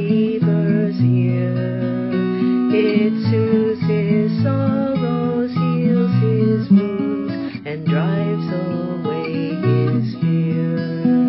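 Zager ZAD50CE acoustic-electric guitar playing a slow hymn melody over held bass notes and chords.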